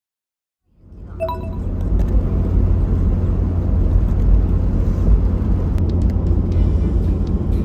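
Steady low rumble of an old Toyota Land Cruiser 70 on the move, fading in under a second in.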